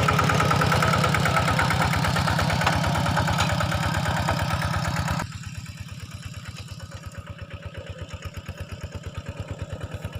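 An engine idling with a steady, even pulse. It drops sharply in level about five seconds in and carries on more quietly.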